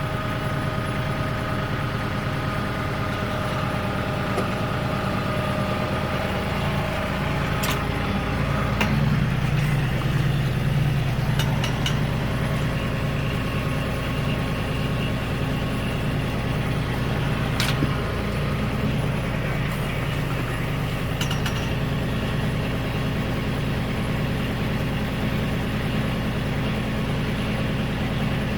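RK37 compact tractor's engine running steadily while powering a three-point post hole digger's auger; its low note grows stronger about nine seconds in. A few sharp clicks stand out over it.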